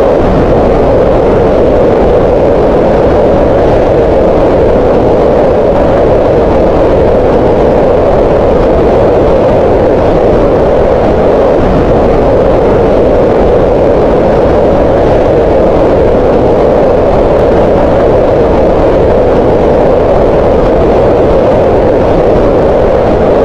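Green noise: a steady, unchanging hiss-like rush with its energy concentrated in the middle range around 500 Hz.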